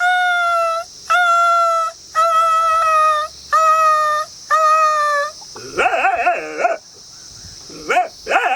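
A man imitating a dog howling with his voice: five long howls, each gliding slightly down in pitch, followed by shorter wavering yowls after about six seconds and near the end.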